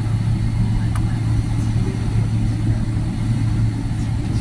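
Steady low hum inside the cabin of a Boeing 777-300ER on the ground, with a couple of faint clicks.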